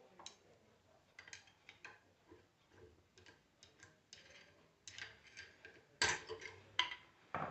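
Faint, irregular light clicks and taps of tools and alternator parts being handled on a workbench, with a few louder knocks about six seconds in.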